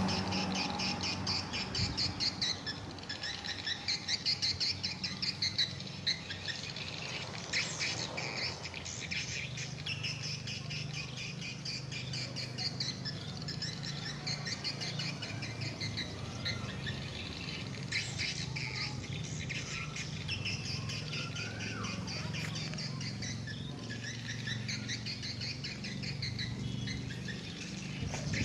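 A flock of swiftlets twittering, with many rapid high chirps and clicks overlapping, over a low steady hum.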